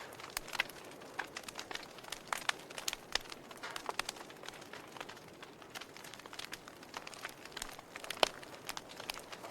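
Wood fire burning in a fireplace: irregular sharp crackles and pops over a soft steady hiss of flames, with the loudest pop a little past eight seconds in.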